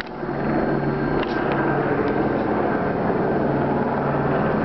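Police helicopter overhead, its rotor and engine making a steady, loud drone with a fast low flutter.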